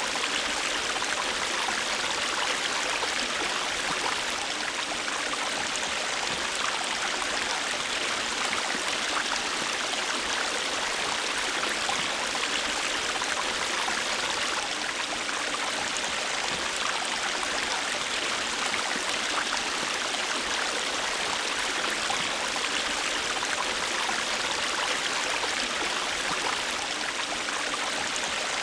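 River water flowing: a steady, even rushing with no breaks or separate events.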